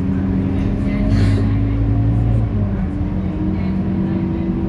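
Scania K230UB bus's five-cylinder diesel engine running, its pitch rising a little past halfway as the revs climb. A brief hiss comes about a second in.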